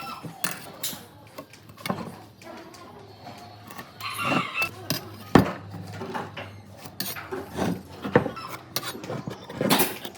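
Irregular knocks and clicks at varying strength over a low steady hum, with a brief snatch of a voice in the background.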